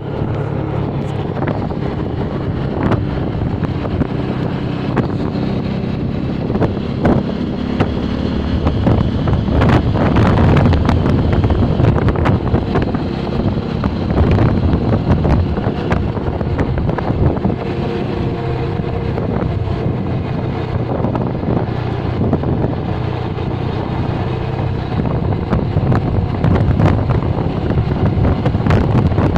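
Motorcycle engine running steadily while riding, with wind buffeting the microphone and occasional knocks.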